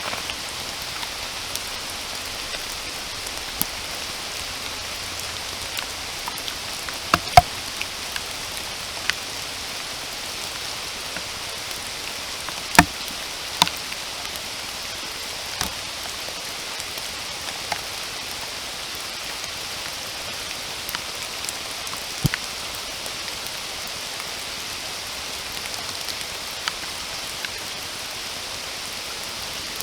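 Steady rainfall making an even hiss. Scattered sharp drop impacts land close by, the loudest about seven and thirteen seconds in.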